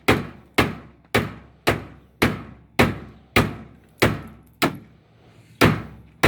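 Repeated hard blows on a Whirlpool Duet steam washing machine, about two strikes a second with a short pause near the five-second mark, each a sharp knock that dies away quickly. The blows are aimed at breaking off its control knob.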